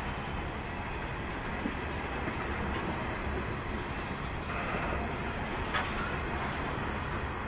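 Grain train's hopper wagons rolling slowly past: a steady rumble of steel wheels on the rails, with a couple of short clanks.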